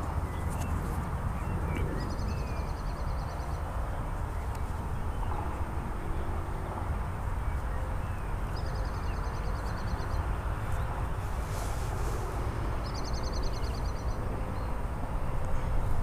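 Steady low outdoor rumble, like wind on the microphone, with a bird's rapid ticking trill sounding three times, each lasting about a second and a half.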